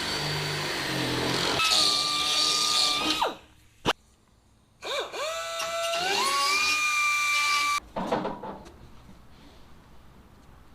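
Cordless power drill running in two bursts of about three seconds each, its motor whine rising in pitch as it spins up, with a sharp click between them: driving in the door hinge bolts.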